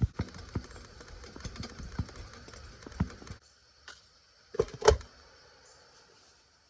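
A Coleman 220F gas lantern being handled as it is made ready to light: irregular clicks and knocks for about three seconds, then two sharp metallic clanks about five seconds in.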